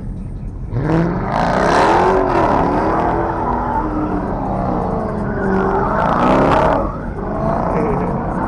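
Car engine revving hard, its pitch climbing and falling several times over a low rumble, with a brief let-off about seven seconds in before it revs again.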